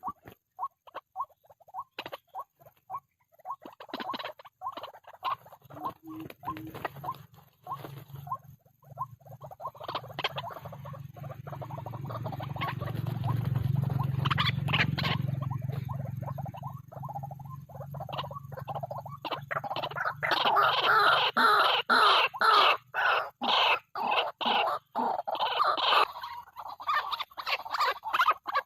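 White-breasted waterhen (ruak-ruak) calling, a long run of rapid, repeated croaking notes that grow denser and louder near the end. A low hum swells and fades in the middle.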